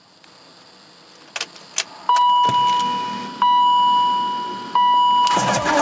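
Keys clicking and jangling, then the BMW X5's dashboard warning chime: a steady tone that sounds three times, each about a second and a half long and fading. Near the end a louder, noisy sound with a low rumble starts.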